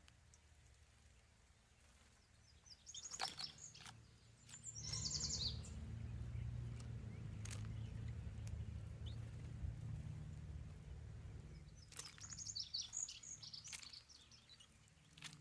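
Bird chirping in quick high series: a short burst about three seconds in, another about five seconds in, and a longer one near the end, over a faint low rumble.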